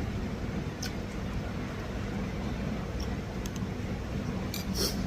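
A few short, crisp crunches of raw bean sprouts being chewed, the loudest cluster near the end, over a steady low background hum.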